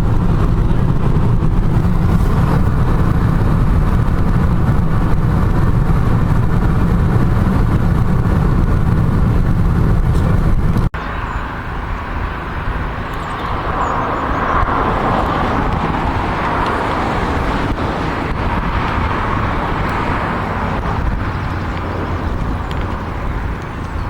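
Car driving, heard from inside the cabin: a steady low road rumble that cuts off sharply about eleven seconds in and gives way to a lighter, hissier driving noise.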